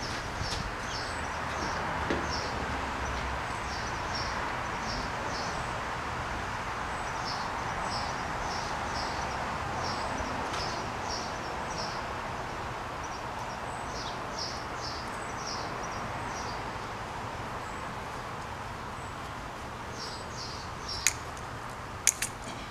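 Outdoor ambience of a bird calling in short runs of high chirps, repeated every second or two, over a steady background hiss. A few sharp clicks near the end.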